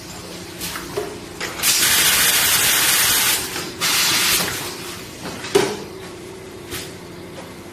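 Automatic vacuum tea packaging machine running with a steady hum, letting out two loud bursts of gas hiss about one and a half and four seconds in, among sharp mechanical clicks.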